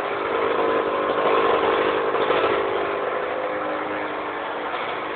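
A 2003 Aprilia RS 125's single-cylinder two-stroke engine running at a steady, idle-like speed. It gets a little louder for about two seconds near the start, then settles back.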